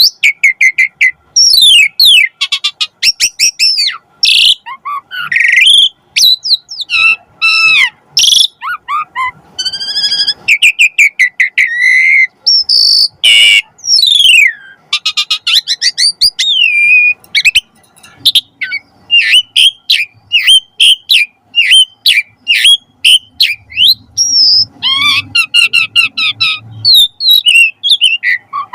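Asian pied starling singing a long, varied song of loud whistles, rising and falling sweeps and fast chattering runs, broken by short pauses. The song is packed with imitated calls of other birds.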